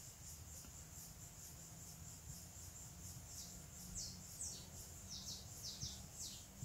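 Faint birds chirping, a run of quick falling chirps mostly in the second half, over a steady high hiss and a low hum.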